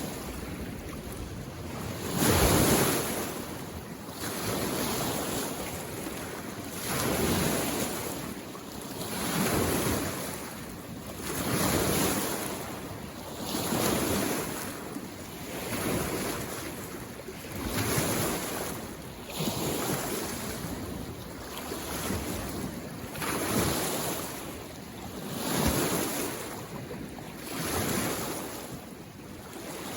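Small lake waves washing in on the shore, one surge of water noise every two seconds or so.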